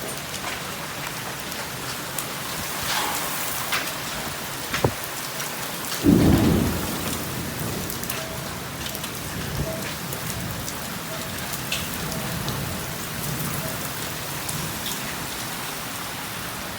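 Heavy rain pouring steadily, with scattered sharp clicks of hailstones striking. A single loud, low clap of thunder comes about six seconds in and rumbles away within a second.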